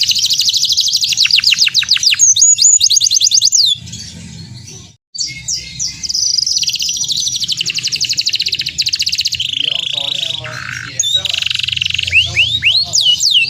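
Domestic canary singing loud, fast trills of rapidly repeated sweeping chirps, breaking off briefly about four to five seconds in and then going on with more trills and rolls.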